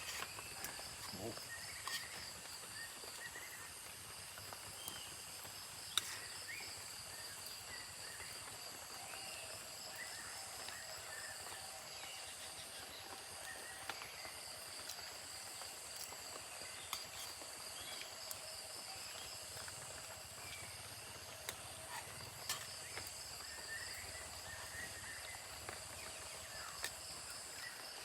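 Forest insects trilling steadily in high-pitched bands, with scattered short bird chirps and a few sharp clicks.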